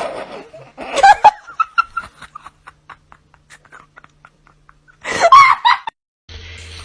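A person laughing hard in loud bursts, with a run of short, quick laughs in between. Near the end the sound cuts to a steady hum.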